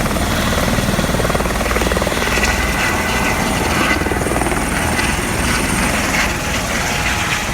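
Helicopter engine and rotor running, heard as a steady, loud drone.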